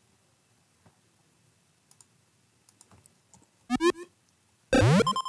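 Faint computer mouse and keyboard clicks, then a short cartoon-style sound effect that sweeps quickly up in pitch, and near the end a louder rising-pitch pop effect, a sample being auditioned for a joystick popping out.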